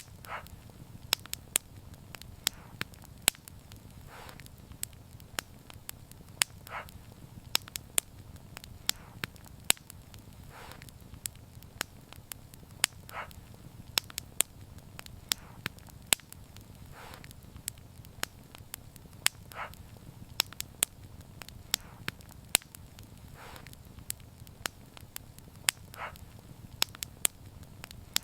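Wood fire crackling, with many sharp irregular pops over a steady low rumble, and a soft hiss swelling every few seconds.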